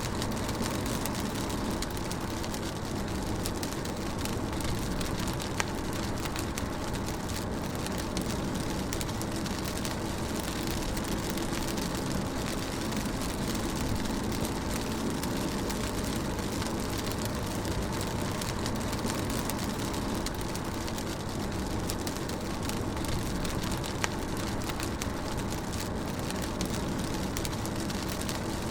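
Rain on a moving car heard from inside the cabin: a steady hiss of rain over a low drone of road and engine noise. Two faint sharp ticks stand out, about six seconds in and again late on.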